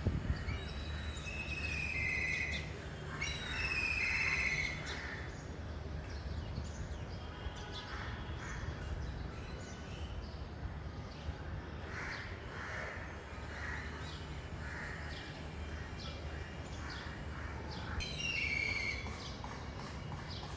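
Birds calling over a steady low rumble: two longer calls in the first few seconds, a run of short repeated calls through the middle, and another longer call near the end.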